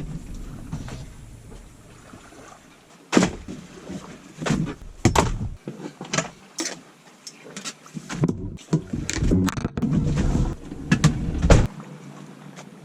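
A run of irregular knocks and thumps, about a dozen sharp hits spread over several seconds, beginning about three seconds in, with a low steady rumble before them.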